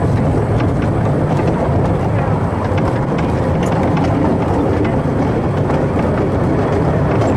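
Narrow-gauge passenger train in motion, heard from on board: a steady rumble from the Groudle Glen Railway's four-wheeled carriages running on the rails, with light rattling over it.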